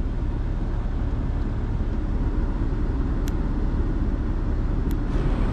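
Nissan Pathfinder driving on a dirt forest track: a steady low rumble of engine and tyres, with two brief light ticks in the second half.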